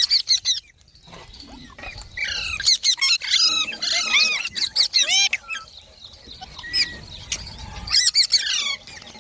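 Green parrots chirping and squawking in bursts of quick rising and falling calls, thickest through the middle and again near the end.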